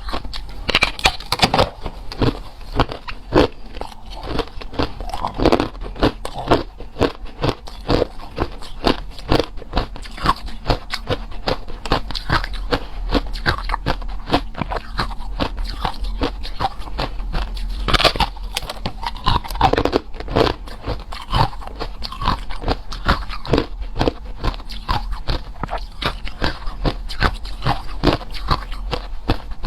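Close-up crunching and chewing of hard and crushed ice: dense, irregular cracks and crunches, several a second, with sharper bites now and then.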